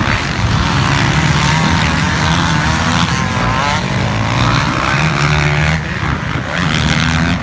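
Dirt bike engines running and revving, their pitch rising and falling as the bikes go round the track.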